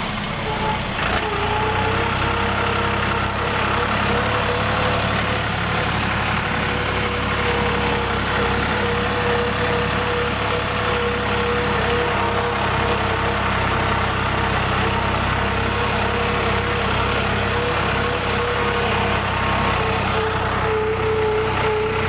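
Heavy diesel machine engine running at a steady speed, with a constant whine over the low engine hum.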